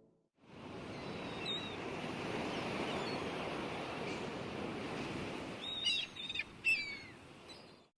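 Steady wash of surf with small birds chirping over it, a few single chirps and then a quick run of falling chirps about six to seven seconds in.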